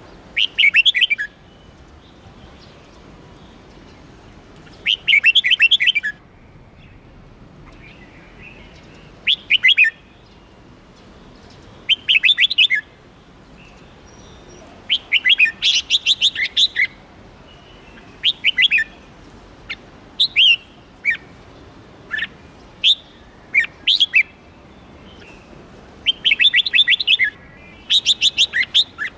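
A songbird singing loudly in short bursts of quick, rapidly repeated notes, each phrase about a second long and repeated every few seconds. Longer runs come about halfway through and near the end.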